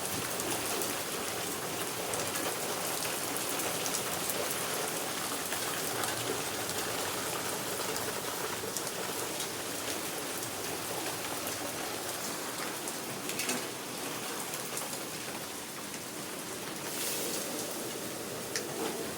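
Steady rain falling and pattering on surfaces, with a few faint drips.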